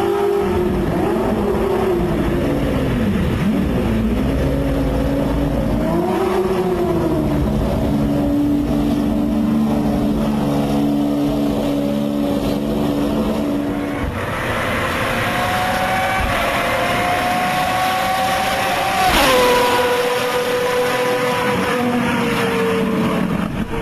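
Lamborghini Murciélago R-GT's V12 race engine, revved up and down, then held at a steady speed. Near the end it climbs slowly in pitch, drops sharply about nineteen seconds in, and then falls away gradually.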